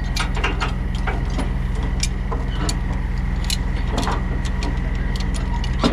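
Diesel engine idling steadily, with frequent sharp metallic clinks and knocks over it from chain being handled to tie down a load.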